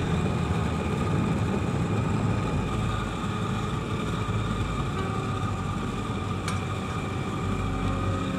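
Home-built forge furnace's burner and blower running with a steady drone and a faint high whine. There is a short click about six and a half seconds in.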